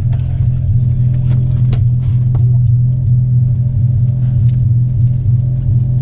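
Car engine running at steady revs, a loud, even low drone with a few faint clicks.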